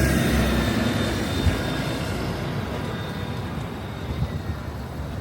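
Street traffic: a passing vehicle's rumble and hiss, loudest at first and fading away over a few seconds.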